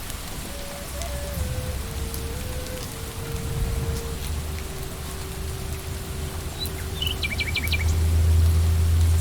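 Steady rain falling, with a quick run of bird chirps about seven seconds in and a low rumble swelling near the end.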